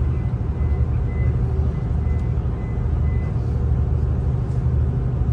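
V/Line passenger train heard from inside the carriage while running: a steady low drone and rumble throughout. A faint high whine comes and goes over the first three seconds.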